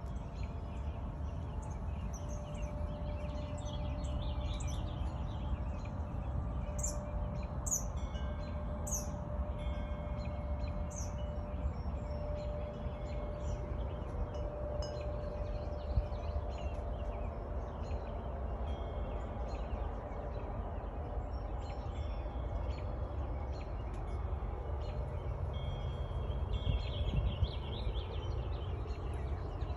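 Several birds chirping and singing, short calls and trills coming and going throughout, over a steady low background rumble.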